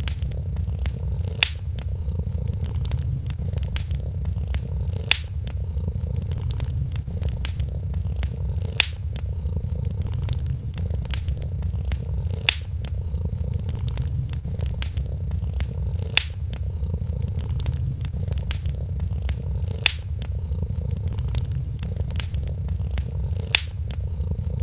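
A cat purring steadily in a low rumble, with a wood fire crackling over it; sharper pops stand out at even intervals of about every three and a half to four seconds.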